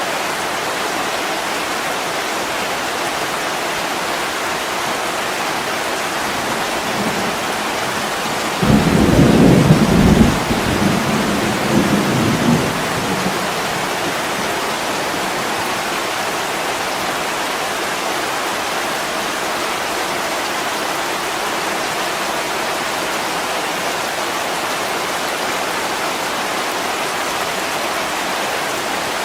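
Heavy rain pouring steadily on a window, with a thunderclap breaking in suddenly about nine seconds in and rumbling low for about four seconds before fading back under the rain.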